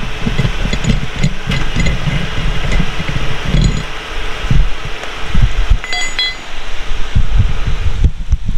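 A vehicle engine running with an uneven low rumble, over rain and wind noise on the microphone; a few brief metallic clinks about six seconds in.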